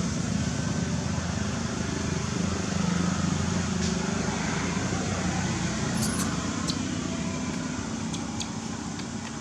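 Steady mechanical rumble like a running engine or passing traffic, with a low hum, and a few short sharp high clicks in the second half.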